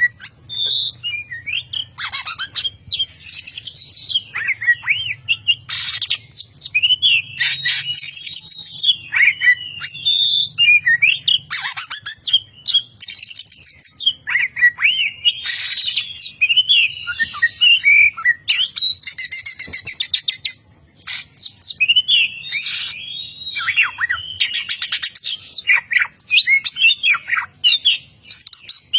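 Oriental magpie-robin (kacer) singing loudly and without a break, a varied song of gliding whistles and fast chattering trills, including mimicked calls such as a lovebird's long chatter. The bird pauses briefly about two-thirds of the way through.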